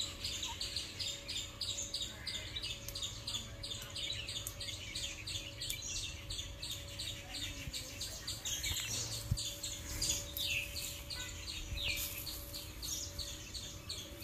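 Birds chirping: a quick run of high repeated notes, with a few separate falling calls about ten to twelve seconds in.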